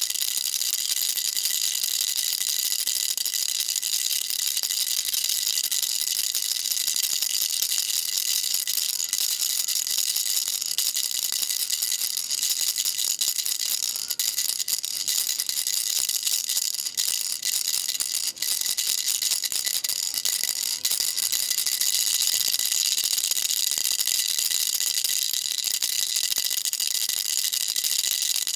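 Baby rattle shaken without pause: a dense, steady, high-pitched rattling, with a few brief dips in the middle.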